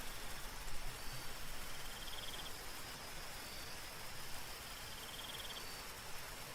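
Soft, steady rain falling, with night insects trilling over it: a faint high continuous note and two short pulsed trills, about 2 seconds in and again about 5 seconds in.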